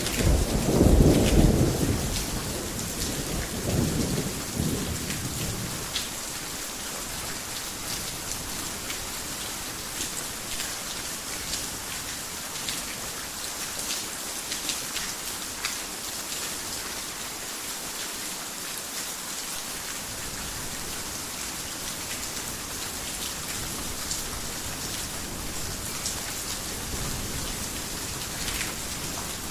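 Steady heavy rain hissing, with individual drops ticking through it. A thunder rumble, loudest at the start, dies away over the first five seconds or so. A fainter rumble comes back near the end.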